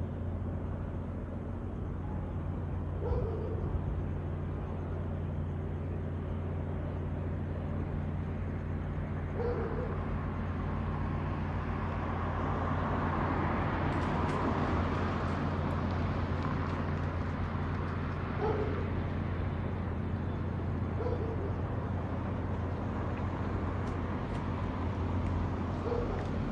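Outdoor night field recording: a steady low hum under a rushing noise that swells for several seconds in the middle and then eases off. Short faint calls recur every few seconds.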